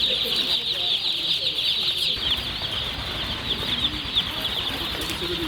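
A brood of young chicks peeping all together: a dense, continuous chorus of many short, high, falling chirps.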